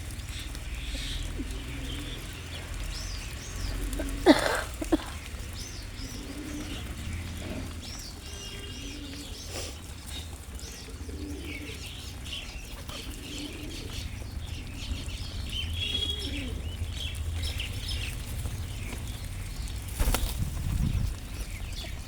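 Birds at a feeding spot: many short chirps scattered throughout, with wing flapping and a steady low rumble underneath. A sharp, loud sound stands out about four seconds in.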